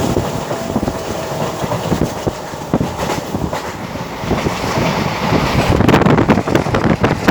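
Train running along the track, heard from on board: a steady rumble with irregular rattling of the wheels on the rails, getting louder near the end.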